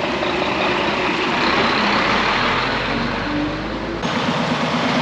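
Diesel lorry engines idling, a steady mixed rumble that changes abruptly about four seconds in.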